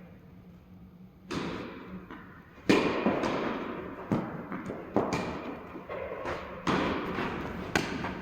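Tennis rally: a tennis ball is struck back and forth by rackets, with about six sharp, echoing hits roughly a second or so apart, the first a little over a second in.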